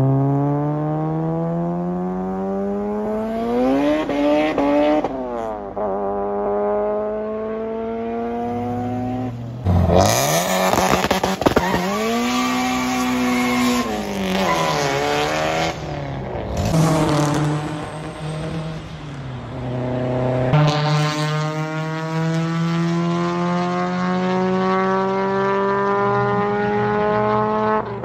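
Modified performance car engines at full throttle, the pitch climbing steadily over several seconds at a time, then dropping back at gear changes. The sound changes abruptly a few times, as from one car to another.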